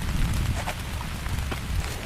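Heavy rain falling steadily, with many individual drops striking close by, over a low, uneven wind rumble.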